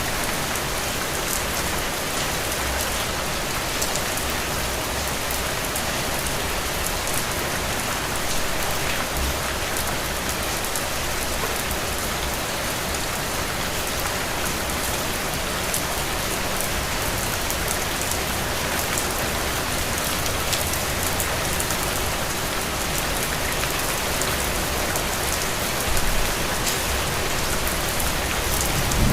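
Heavy rain falling steadily: a dense, even hiss made of countless individual drop hits.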